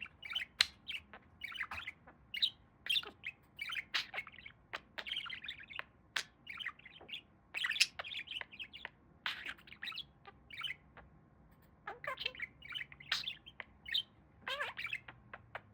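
Pet budgie (budgerigar) chattering: a fast, continuous run of short chirps, squeaks and clicks, thinning briefly about ten seconds in.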